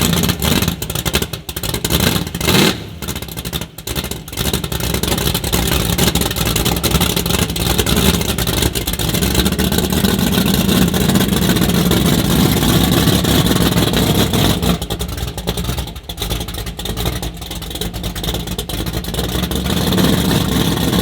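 Loud race car engines running and revving, with a few sudden breaks and shifts in the first few seconds and again about fifteen seconds in.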